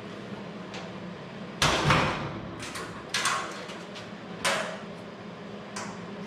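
A few sharp metal clunks and knocks, the loudest pair about a second and a half in, then three lighter ones, over a steady shop hum.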